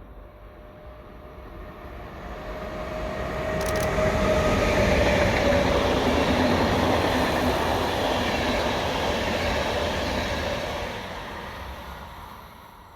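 A train passing by on the rails. The rolling noise swells over the first few seconds, stays loud for about six seconds, then fades away near the end.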